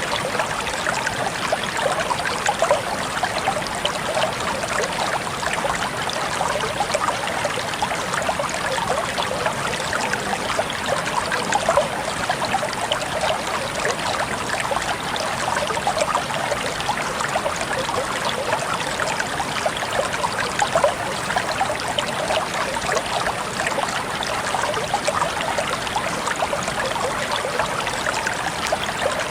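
Water trickling steadily, a dense, continuous patter of small droplets and splashes.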